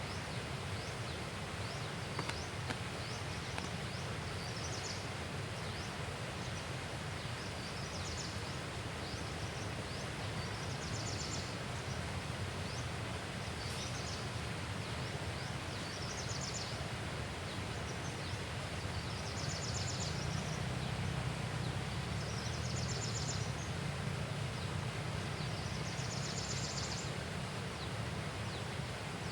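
Steady outdoor ambience with a low rumble and hiss, over which a small animal's short, high, buzzing call repeats about every three seconds, each lasting about a second.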